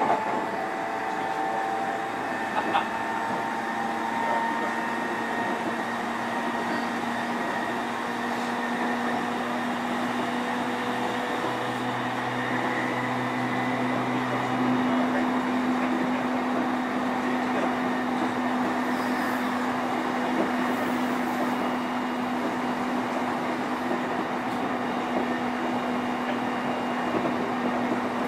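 Steady running noise inside the motor car of a JR East E531 series electric train: an even rumble with a steady low hum that grows a little louder about halfway through. There is no rising or falling inverter-motor whine.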